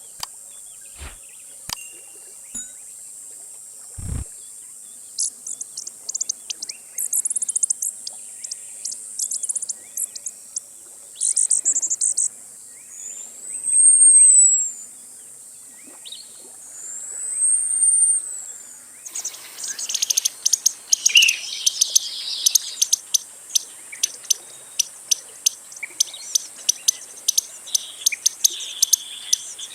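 Costa's hummingbird calling: bursts of rapid, very high ticking notes, then two long, thin, high whistles that each rise and fall. From about two-thirds of the way in, a denser run of high ticks and chirps follows over a louder background.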